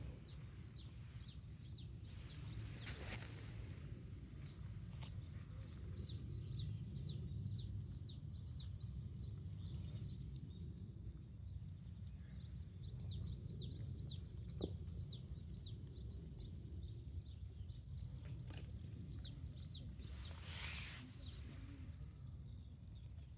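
Outdoor ambience: a bird chirping quick, high, downward-sliding notes in several runs over a steady low rumble. There are two short hissing bursts, one about three seconds in and one near the end.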